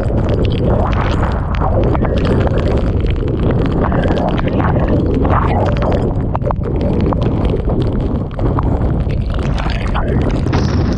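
Typhoon wind buffeting the microphone in a loud, steady low rumble, with driving rain spattering and crackling all through.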